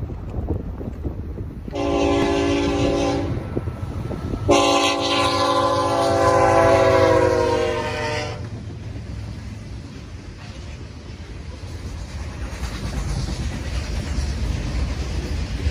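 Diesel locomotive air horn sounding two blasts, a short one about two seconds in and a long one from about four and a half to eight seconds whose pitch sags slightly as the lead locomotive goes by, over a low rumble. After the horn stops, loaded covered hopper cars roll past with a steady low rumble and wheel clatter.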